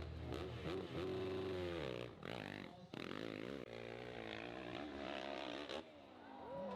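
Motorcycle engine revving, its pitch rising and falling, with brief breaks in between.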